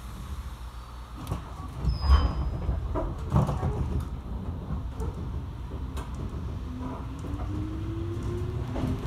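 205 series electric train pulling away from a station, heard from inside the carriage: a few knocks and thuds in the first seconds as it gets under way, the loudest about two seconds in, then the motor whine rising in pitch as it gathers speed over the last couple of seconds.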